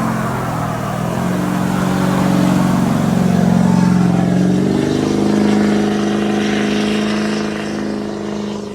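Truck engine running loud at raised revs, its pitch stepping up and down a few times.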